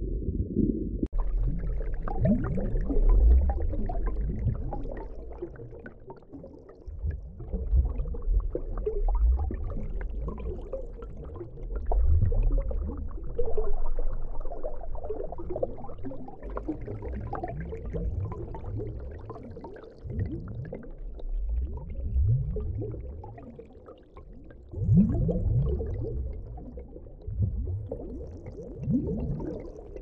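Underwater sound of low rumbling and bubbling gurgles, swelling and fading in irregular surges.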